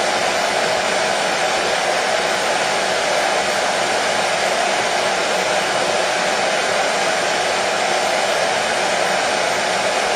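Hair dryer running continuously: a steady, unchanging blowing rush, strongest in the middle range, played as white noise to soothe a colicky baby to sleep.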